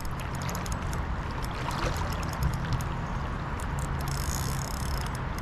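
Steady rush of flowing river water with a low rumble underneath.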